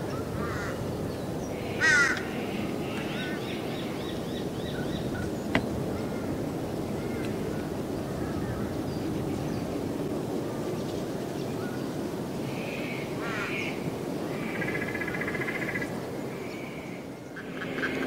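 Wild birds calling over a steady low background hum. The loudest is a short call about two seconds in, followed by a run of short repeated calls, a sharp click around five and a half seconds, and further calls late on.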